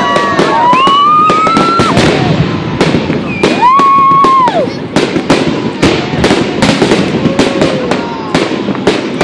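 Fireworks display at close range: a rapid string of bangs and crackles as shells burst, with two long gliding tones over them in the first half.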